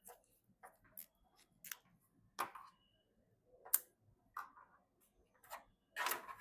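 Hands handling PC parts during assembly: a string of irregular small clicks and taps of plastic and metal, the sharpest a little under four seconds in, with a longer scrape near the end.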